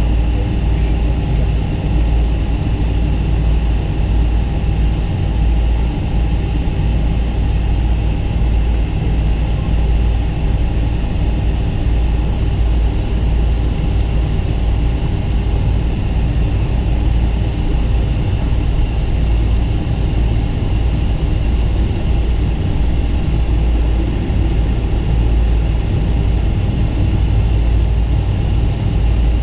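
Boeing 777-200 airliner's jet engines heard inside the passenger cabin: a steady, loud low rumble with a constant whine, not changing in pitch or level.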